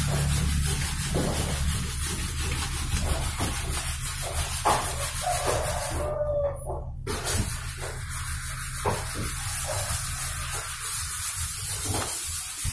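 Isuzu Panther's four-cylinder diesel engine idling steadily with a low, even hum, with a few light knocks over it.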